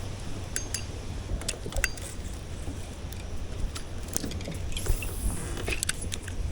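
Scattered light clicks and small clinks of fishing tackle and kayak fittings, irregular rather than rhythmic, over a steady low rumble.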